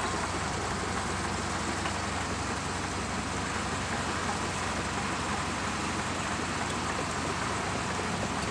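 Bulldozer's heavy diesel engine running steadily, an even drone that holds the same level throughout.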